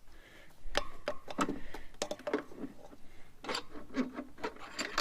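Irregular metallic clicks and knocks, some with a brief ring, from parts being handled while the speedometer drive is fitted to a motorcycle front wheel.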